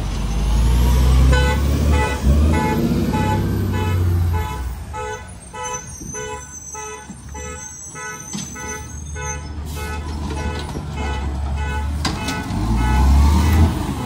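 Garbage truck engine running with a rapid electronic warning beeper sounding about three times a second for most of the stretch.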